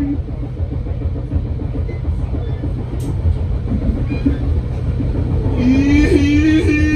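Steady low rumble of a passenger train running on the rails, heard from inside the coach. About five and a half seconds in, music with a sustained, wavering note comes in over it.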